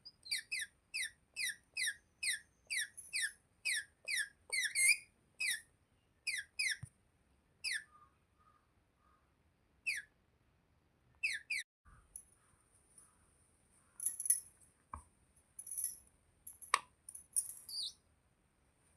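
A young pet Indian parakeet calling in a rapid run of short, high, downward-sliding chirps, about two or three a second, for the first five seconds or so. Single chirps come at intervals after that. In the last part there are softer, scratchier, chattering sounds with a couple of sharp clicks.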